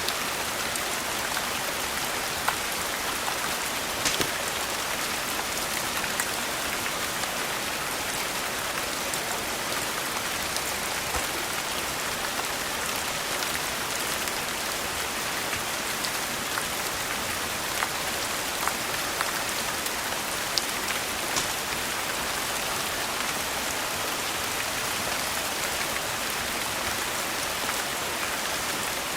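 Steady, even rain hiss, with a few sharp pops and ticks scattered through it.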